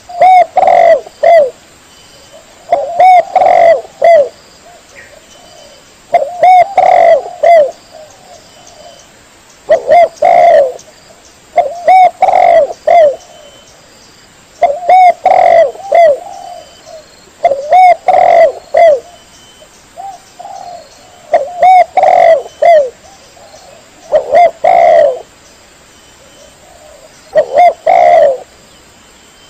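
Spotted dove cooing: a phrase of a few short, low coos, repeated about every three seconds.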